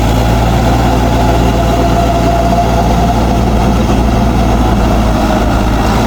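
Mahindra 4WD tractor's direct-injection diesel engine running steadily at an even speed.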